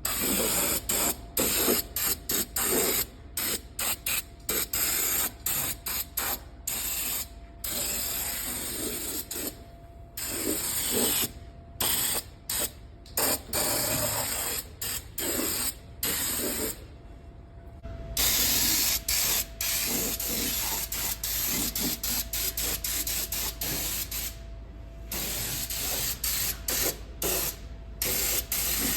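Spray applicator hissing as Fluid Film rust-proofing is sprayed onto a vehicle's underside, in many short bursts with brief stops, then in longer runs in the second half.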